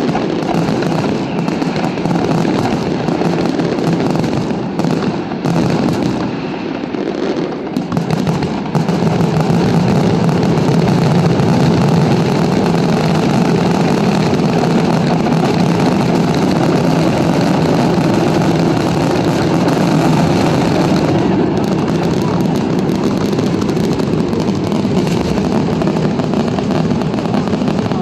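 Aerial fireworks going off in a dense barrage, the bursts running together into a continuous loud rumble and crackle that eases briefly about a quarter of the way in, then builds again.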